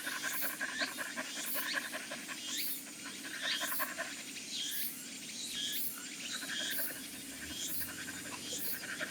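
A dog panting steadily, in quick, even breaths.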